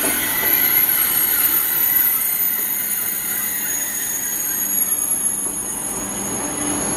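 Eurostar Class 373 train rolling slowly past at close range, a steady rumble of wheels and running gear with several high-pitched squealing tones held over it.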